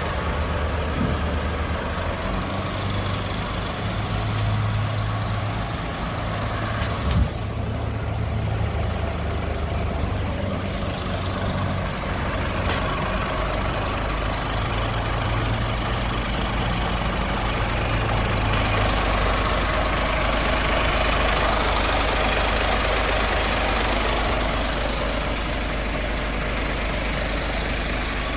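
Scania S500 truck's 13-litre straight-six diesel engine running steadily, with a single sharp knock about seven seconds in.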